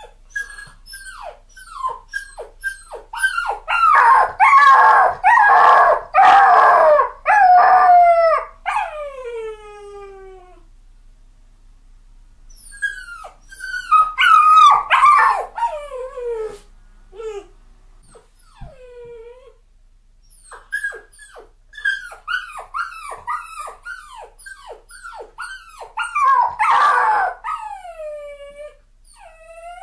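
A puppy crying: many short, high whimpering yelps that slide down in pitch, rising into louder drawn-out howling cries in three bouts with short pauses between.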